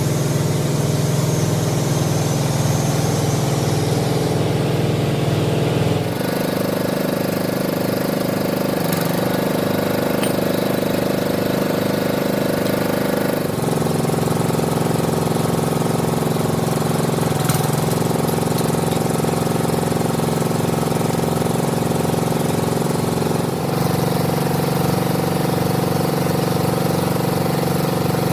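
Workshop machinery running with a steady drone, its tone changing abruptly about 6, 13 and 24 seconds in.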